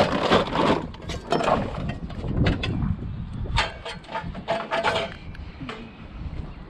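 Scrap metal being handled and loaded into a van: a run of clanks and knocks, a few of them ringing briefly about three and a half to five seconds in.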